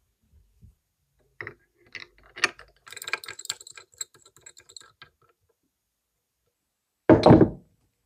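Metal workshop parts being handled: a few separate clicks, then about two seconds of rapid mechanical clicking and rattling, and a single heavy thump near the end.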